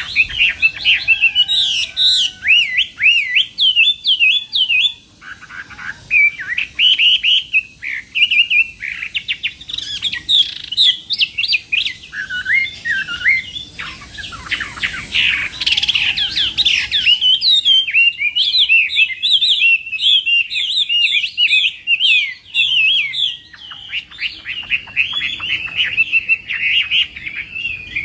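Chinese hwamei (họa mi) singing a long, unbroken song of rapid whistled notes and quick trills that rise and fall.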